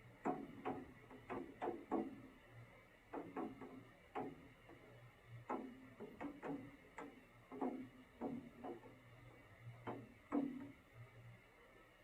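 Irregular sharp taps, roughly two a second with uneven gaps, each with a short low ring, over a faint steady low hum.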